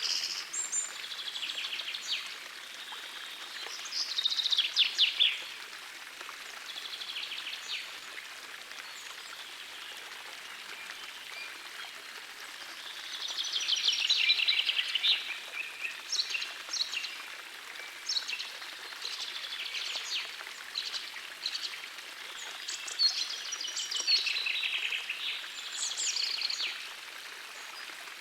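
Small forest stream running with a steady rushing sound, with songbirds singing over it in short repeated phrases. The song is loudest about four seconds in, again around the middle, and near the end.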